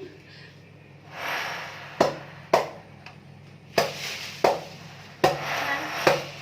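A blade chopping into a coconut: six sharp strikes at uneven intervals, with rustling between them.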